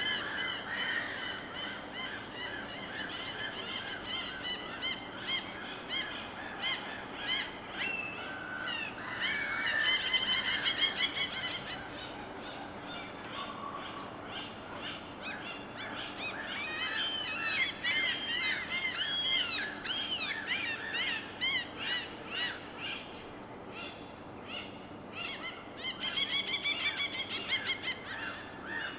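Birds calling over a steady wash of water: many harsh, honking calls, some in runs of quick repeated notes.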